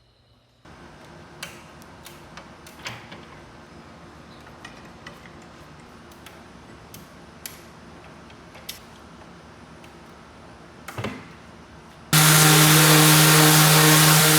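Scattered light clicks and knocks of hand work on wood, then about twelve seconds in a power tool switches on abruptly and runs steadily and loudly with a low motor hum.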